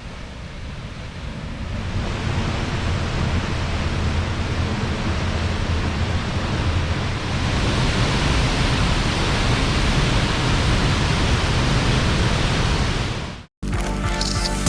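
Waterfall's steady rush of falling water, getting louder a couple of seconds in and again around the middle. It cuts off suddenly near the end, and music starts.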